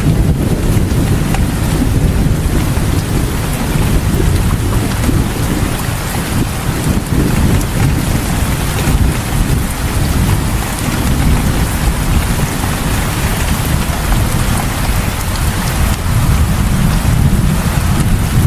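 Heavy rain falling steadily, with a deep, continuous rumble underneath.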